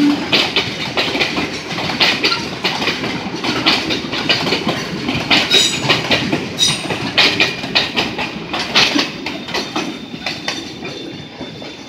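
Loaded freight cars rolling past at close range, their wheels clacking over rail joints in repeated groups of sharp knocks with a steady rumble underneath. The clatter thins and fades near the end as the last cars pass.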